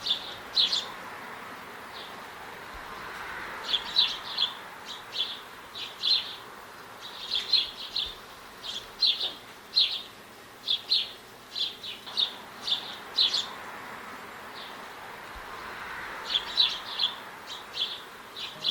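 A small songbird giving short, sharp chip calls, singly and in quick clusters of two or three, over a faint steady background hiss.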